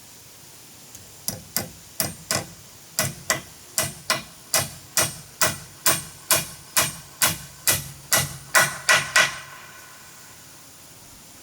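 A hammer striking repeatedly, about twenty blows at two to three a second. The blows grow louder toward the end and stop about nine seconds in.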